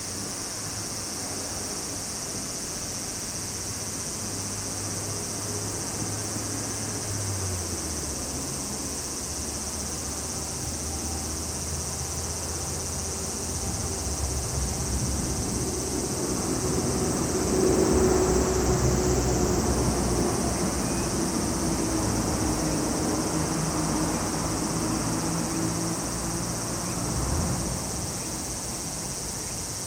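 An engine-driven aircraft drones past overhead, swelling to its loudest a little past the middle and fading near the end. It passes over a steady high-pitched chorus of summer insects.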